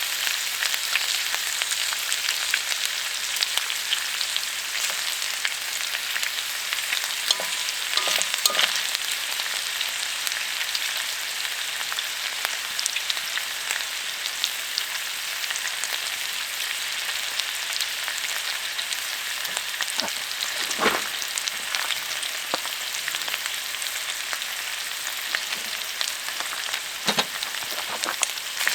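Food sizzling over high heat: a steady hiss full of small pops and crackles.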